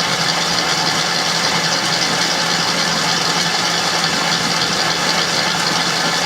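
KitchenAid Pro Line 7-quart stand mixer with a DC motor, running empty at its top speed of 10: a steady whir with a constant low hum, reading about 72 dB on a sound meter.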